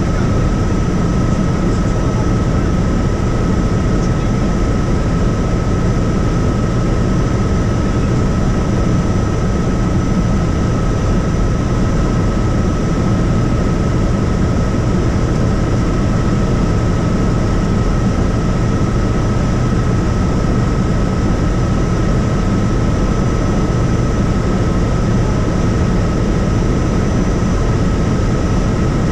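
Helicopter in flight: a steady, loud rotor and engine noise, heaviest in the low end, with a thin constant high whine over it.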